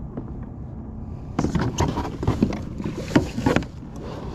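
A small hooked snook thrashing and splashing at the kayak for about two seconds, starting about a second and a half in, as a string of irregular splashes and knocks. Underneath is a steady low rumble of wind on the microphone.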